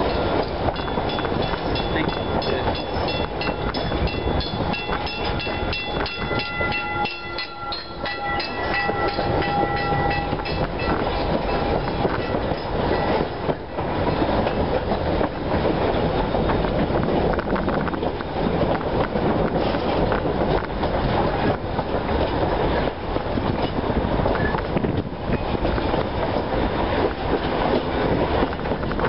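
Heritage wooden passenger carriage rolling along behind a steam locomotive: a steady rumble of wheels on rail with clickety-clack beats over the track. Thin high steady tones ride over it for the first ten seconds or so, and the noise dips briefly about seven seconds in.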